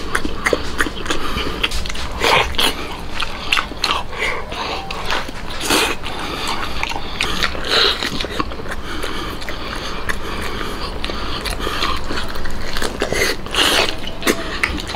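A person biting and gnawing into a large braised meat knuckle, with irregular wet chewing and smacking sounds throughout.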